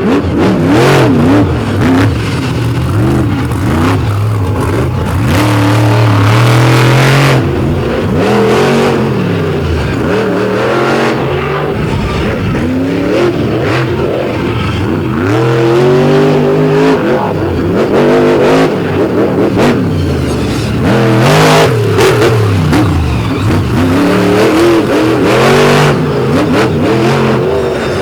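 Monster truck engine revving hard and dropping back again and again through a freestyle run, with a few brief heavy thuds.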